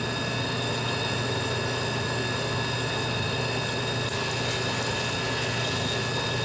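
Dixie Narco vending machine's vend motor and gearbox running a vend cycle, a steady mechanical hum with a faint whine.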